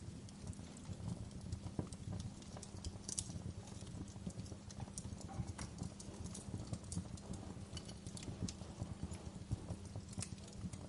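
Wood fire burning in a fireplace: a steady low rumble of flames with irregular sharp crackles and pops, a few louder snaps here and there.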